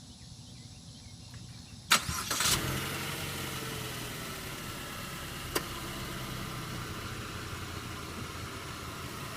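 Chevrolet Sonic's turbocharged four-cylinder engine starting: about two seconds in the starter cranks and the engine catches with a brief rise in revs, then it settles into a steady idle, its pitch falling as the revs come down. A single sharp click in the middle.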